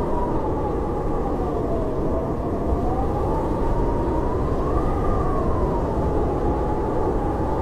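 Howling blizzard wind: a steady rush with a whistling moan that slowly sinks, rises to a peak about five seconds in, then falls back.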